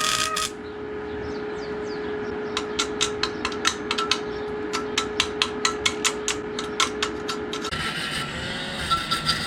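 Workshop tool sounds on a motorcycle exhaust part: a power tool whirs briefly at the start, then comes a run of sharp taps, several a second, over a steady hum, and the power tool whirs again near the end.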